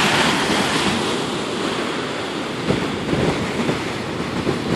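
Rough Lake Michigan waves surging against the shore, under a steady rush of strong wind buffeting the microphone.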